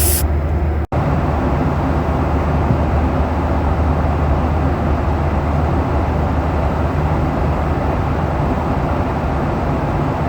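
Steady cabin drone of a Boeing 737-800 in cruise: engine and airflow noise, strongest in the low rumble, with a momentary dropout about a second in.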